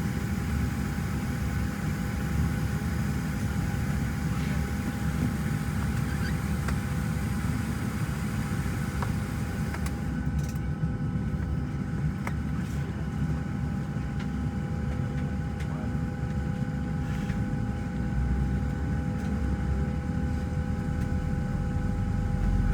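Steady cabin hum inside a Boeing 737-700 before pushback: rushing ventilation air over a low rumble, with a couple of steady whining tones. The higher hiss drops away about halfway through.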